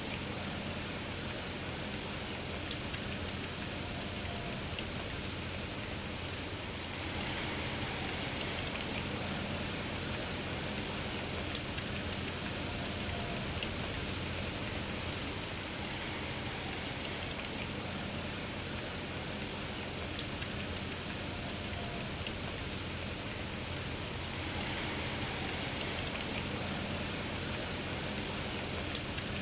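Steady rain falling, an even hiss, with four sharp single drop hits spaced several seconds apart.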